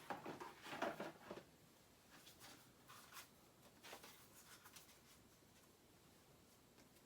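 Faint rustling and handling noise of stickers being sorted through and drawn from a box: a cluster of rustles in the first second and a half, then scattered lighter clicks and rustles that die away.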